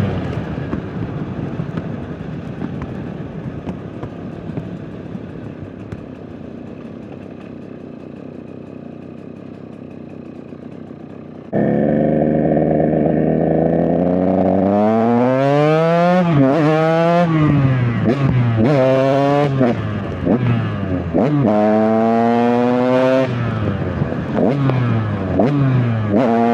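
KTM EXC 125 two-stroke dirt bike engine, first off the throttle with a rattly, fading burble while coasting. About halfway through it comes back on suddenly and revs up through the gears in repeated rising sweeps, each cut short at a shift. The rider says the bike is not running well at the moment.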